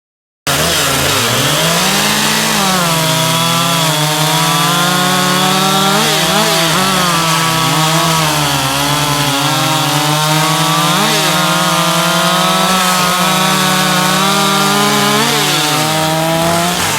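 Two-stroke chainsaw running near full throttle while cutting wood, its high engine note dipping briefly in pitch now and then as the chain bogs under load, then recovering. It starts abruptly about half a second in and fades near the end.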